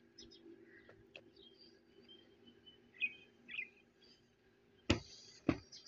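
Birds chirping a few times over a faint steady hum, then two sharp clicks about half a second apart near the end.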